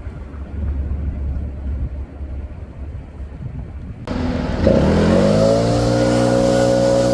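Low rumble of an idling vehicle engine. About four seconds in, a louder engine revs up and then holds a steady high speed.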